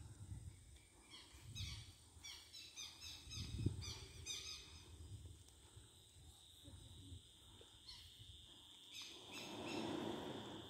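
Faint bird calls: quick runs of short, falling chirps, mostly between about one and five seconds in and again near the end, over a steady high-pitched whine.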